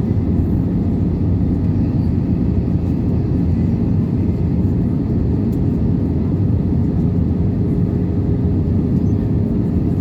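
Steady cabin noise inside an Airbus A320-214 in flight: a deep, even rush of airflow and engine drone, with a faint steady hum underneath.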